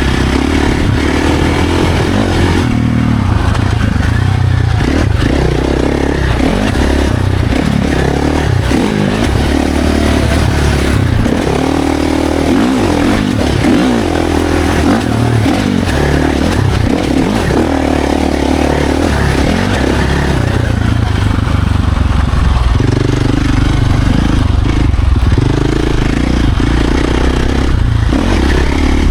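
Dirt bike engine revving up and down as the rider works the throttle and gears on a trail, its pitch rising and falling constantly, with a steady rush of wind over it.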